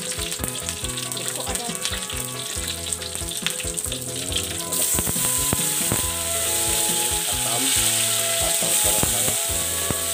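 Stir-frying in a wok: a spatula clicks and scrapes against the metal as garlic, shallots and lemongrass fry in oil. About five seconds in, a loud, steady sizzle rises as sliced Dayak eggplant goes into the hot oil.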